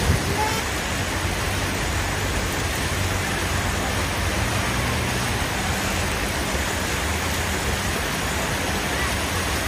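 Steady street noise of motor vehicles running, a low engine hum under an even hiss.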